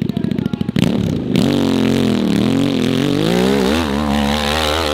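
Off-road motorcycle engine on a steep hill climb, chugging at low revs for about a second, then revving up and down repeatedly as the throttle is worked.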